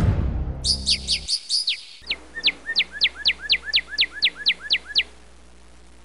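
Drum music fading out, then a bird calling a rapid run of short, sharp, falling chirps, about four a second, which stops about five seconds in.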